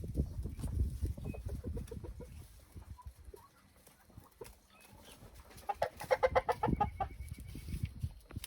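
Chickens clucking, with a quick run of loud clucks about six seconds in. A low rumble sits under the first couple of seconds.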